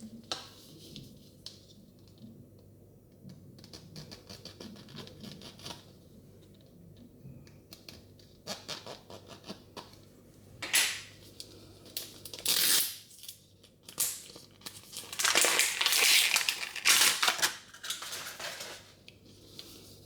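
Plastic wrapping of a Mini Brands surprise capsule being torn and crinkled by hand, in several loud bursts in the second half, the longest near the end, after a stretch of light clicks and taps of small plastic pieces.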